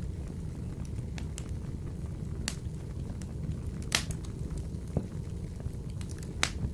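Wood fire burning in a wood-burning stove: a steady low rumble with scattered sharp crackles and pops, the loudest about four seconds in and another near the end.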